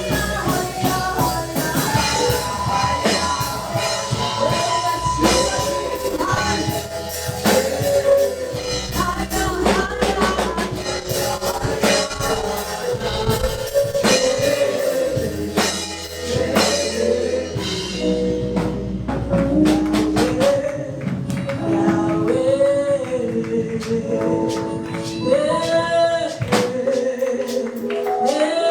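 Live gospel praise music: voices singing over a band with a drum kit. The drums drop out about two-thirds of the way through, leaving the singing and sustained instrument notes.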